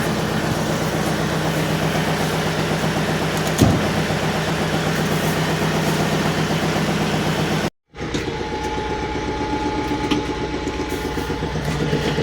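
Farm tractor engine running steadily, with a single sharp knock about three and a half seconds in. The sound cuts out for a moment shortly before the eight-second mark, then the engine carries on.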